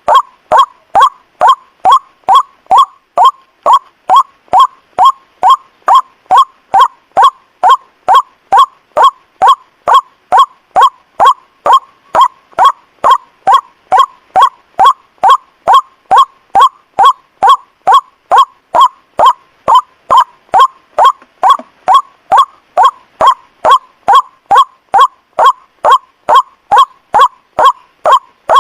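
White-breasted waterhen (ruak-ruak) call repeated as a bird-lure recording: short, loud honking notes, about two a second, evenly spaced and unbroken.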